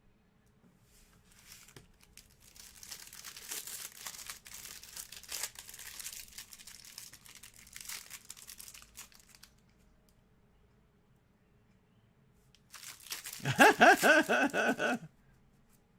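Trading card pack wrappers crinkling and tearing open for several seconds. Near the end comes a loud, brief voiced sound from a person, not words.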